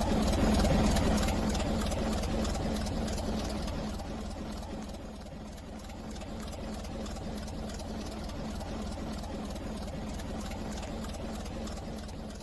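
Steady low rumble of a running vehicle engine, slowly growing quieter.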